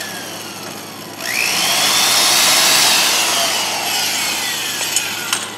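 A high-speed motor whines up sharply about a second in, then slowly winds down, with a strong hiss.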